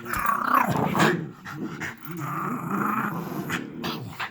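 Dogs growling in rough play, loudest and most ragged in the first second, then a steadier growl for a couple of seconds.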